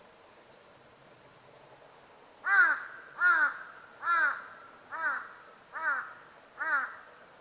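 Jungle crow (large-billed crow) giving a series of six harsh caws, evenly spaced about one every 0.8 seconds, beginning a couple of seconds in; each caw rises and falls in pitch.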